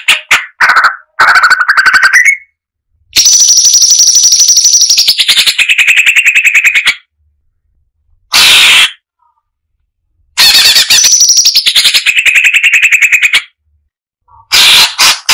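Cucak cungkok (striated bulbul) song: loud, rapid pulsed chattering trills in bursts of a few seconds with sudden gaps between them. The two longest phrases start high and drop lower partway through.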